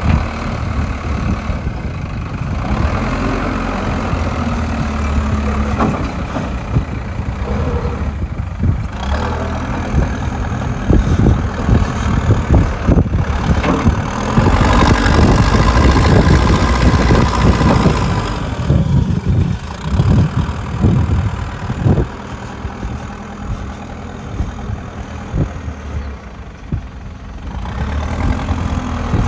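Diesel engine of a JCB digger running and working, swelling louder for a few seconds around the middle. Irregular knocks and clanks come and go over it.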